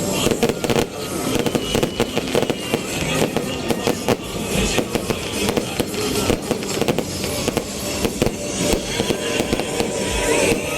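Fireworks going off in a rapid, unbroken string of bangs and crackles.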